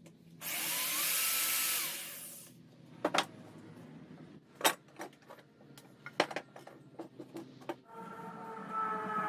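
A power tool runs for about two seconds, its motor whine rising, holding, then dropping as it stops. Scattered sharp knocks and clatter of wood being handled follow, and near the end a quieter whine with several steady tones.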